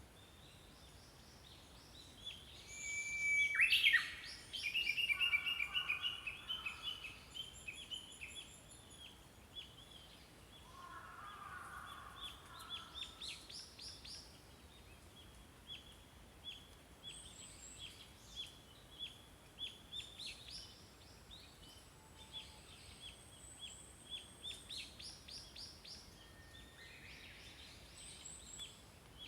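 Small songbirds chirping and singing. The loudest calls come about three to four seconds in, followed by a fast trill of repeated notes. After that, short high chirps repeat at a brisk pace, with other birds calling over them.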